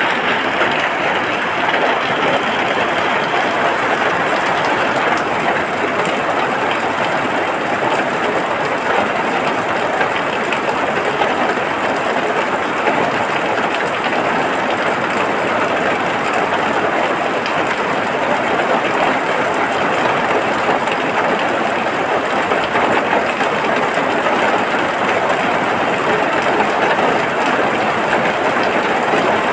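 Steady rain, a dense, even patter that holds at the same level throughout.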